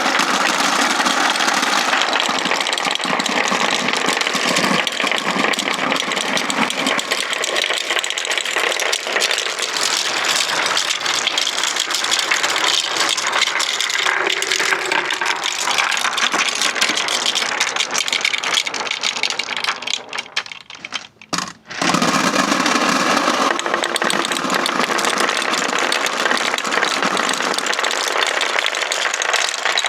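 Many marbles rolling and clattering down wooden ramps, a dense continuous rattle that briefly drops away about two-thirds through and then resumes.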